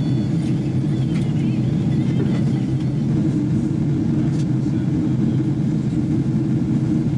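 Steady cabin noise inside a Boeing 777-300ER airliner in flight: an even low rush of airflow and the GE90 engines, with a few faint clicks.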